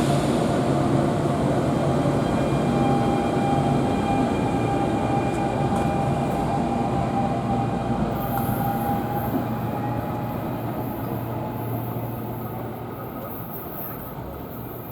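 NJ Transit commuter train running past, its rumble fading steadily over the second half as it moves away, with a steady whine over the rumble for a while.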